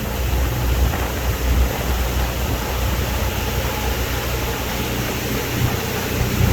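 Wind buffeting the microphone on the deck of a fast-moving ferry, with a steady rush of water and the low drone of the boat underneath.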